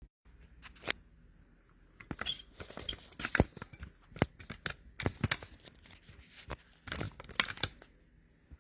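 Handling noise: a string of sharp clicks, taps and short rustles, thickest from about two seconds in and easing off near the end.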